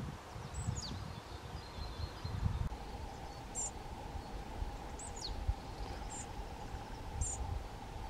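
A few short, high-pitched bird calls, two of them sliding quickly downward, over a low rumble, with a faint steady hum setting in about three seconds in.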